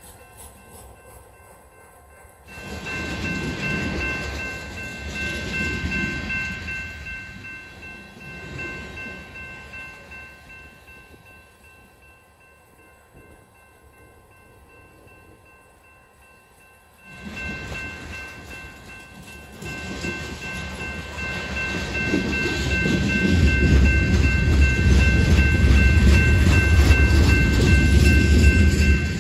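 Freight train's boxcars rolling past, with a rumble and clatter of wheels on rail that swells and fades and grows loudest and deepest near the end. A steady high-pitched ringing tone runs through it.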